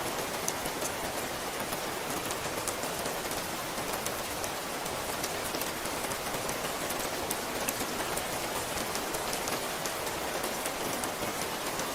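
Steady rain falling, with many individual drops tapping and ticking through it.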